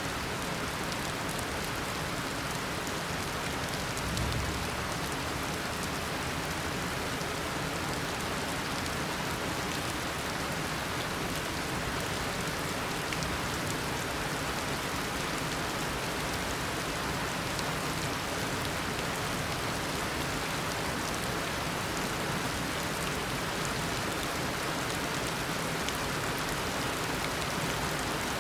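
Heavy tropical rain pouring down in a steady, even downpour, drops hitting surfaces.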